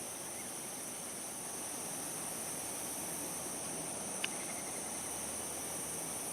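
Steady high-pitched insect chorus, like crickets, holding two even shrill tones throughout. A single short, sharp chip cuts in about four seconds in.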